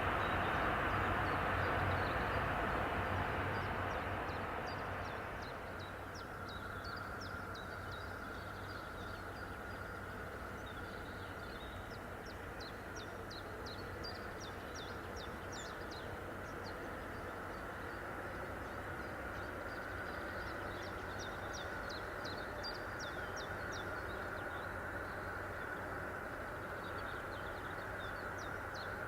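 Noise of a train on the line dying away over the first five or six seconds, leaving a steady background hum. A small bird sings throughout, in short runs of quick high chirps every few seconds.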